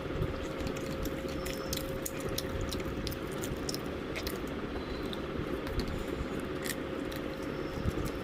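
Someone biting and chewing crispy fried chicken, with scattered short crunchy crackles, over a steady low background hum.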